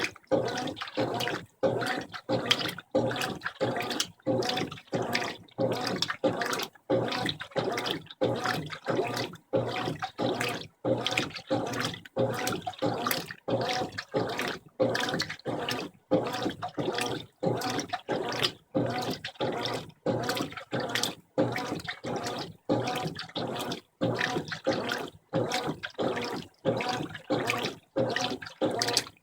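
Brastemp 15 kg top-loading washing machine agitating a full load of clothes in rinse water, the water sloshing in even pulses about twice a second with short pauses between strokes.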